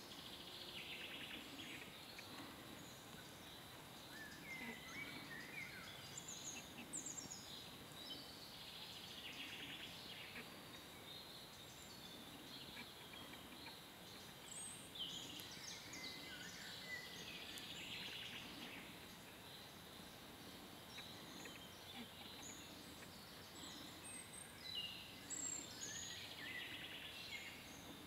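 Faint birdsong: scattered chirps and short whistled phrases over a quiet, steady background hiss.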